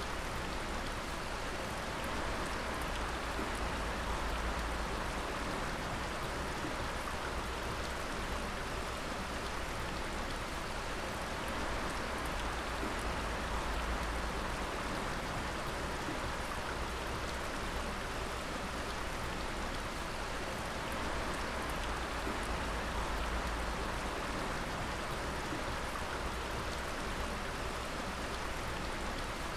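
Water dripping and pattering steadily onto rock and water, like rain on a surface, with a steady wash of running water underneath.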